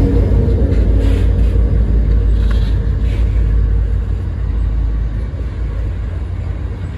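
Loaded coal wagons rolling past on the track below, giving a steady low rumble of wheels on rail that eases off slightly in the second half.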